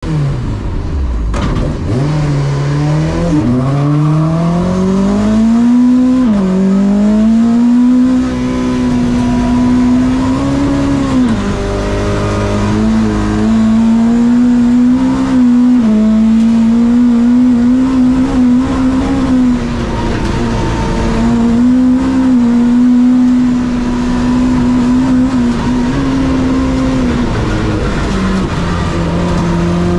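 Peugeot 205 hillclimb car's engine heard from inside the cabin, revving hard and climbing in pitch through upshifts about three, six and eleven seconds in, then held at high revs with brief lifts and dips.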